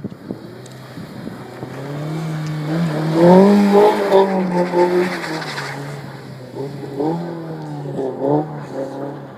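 Honda S2000's four-cylinder engine revving hard as the car slides through snow. The revs climb to their loudest about three seconds in and waver up and down for a couple of seconds, then come back in two shorter rises near the end.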